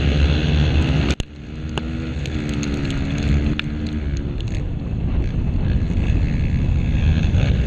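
Off-road motorcycle engines running, with wind on the microphone. The sound cuts off abruptly about a second in and resumes, and a faint engine note wavers in pitch a couple of seconds later.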